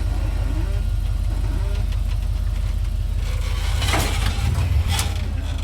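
Off-road vehicle engine running at low, steady revs while crawling or idling on the trail. Two sharp knocks are heard about four and five seconds in.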